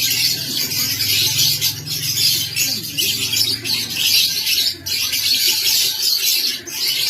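A flock of lovebirds chattering continuously in dense, high-pitched twittering, with a faint low hum underneath.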